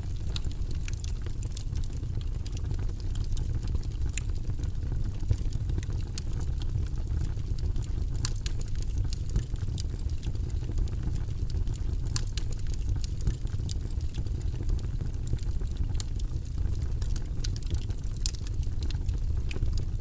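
Fireplace fire crackling: a steady low rumble with scattered sharp pops and snaps throughout.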